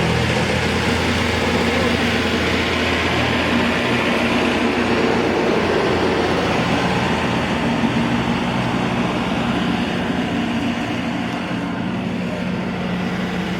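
A vehicle engine running steadily with a low hum, easing off slightly near the end.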